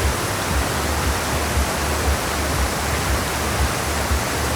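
Steady rush of flowing forest water, an even hiss across the whole range, with an uneven low rumble underneath.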